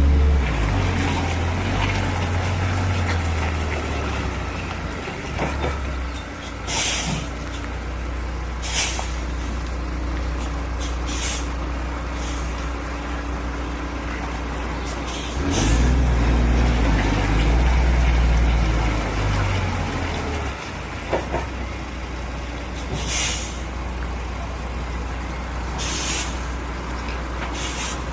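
Heavy diesel truck engine running, louder and rising and falling in pitch at the start and again about halfway through, with several short air-brake hisses.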